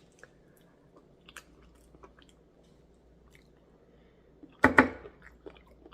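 Close-up mouth sounds of a person chewing fried hot chicken: faint wet clicks and smacks, with one louder, short crunch or mouth noise near the end.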